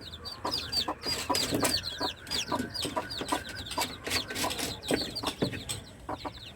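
Newly hatched chicks peeping: a steady run of short, high, falling peeps, a few each second, from several chicks at once.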